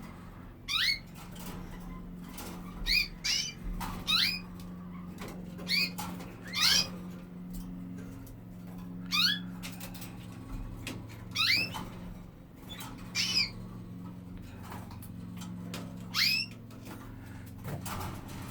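Canaries giving short rising call notes, about a dozen, some in quick pairs, over a steady low hum.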